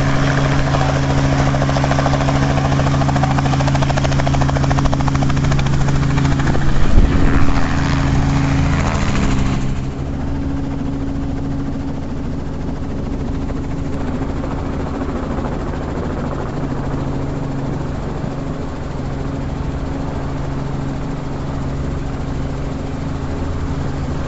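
Robinson R44 helicopter's rotor and six-cylinder piston engine running loud and steady, with a brief loud bump about seven seconds in. A little later the rushing noise drops off sharply and it settles into a quieter, steady run.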